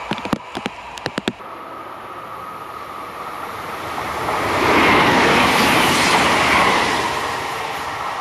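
A string of sharp wheel clicks over rail joints from a departing train at the start. Then a TER regional electric multiple unit runs past on the rails, its rumble swelling to a peak about five seconds in and fading as it draws away.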